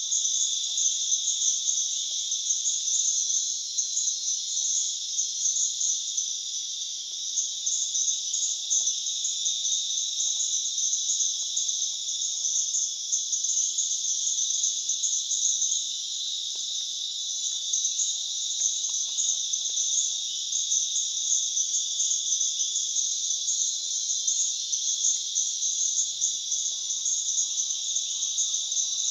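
Dense chorus of insects calling together, a steady high-pitched shrill trilling. Near the end, faint short rising calls repeat several times beneath it.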